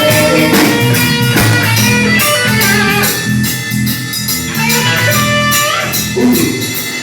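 Live rock and roll band playing an instrumental boogie passage: electric guitar over a walking bass line and a steady drum beat with cymbals.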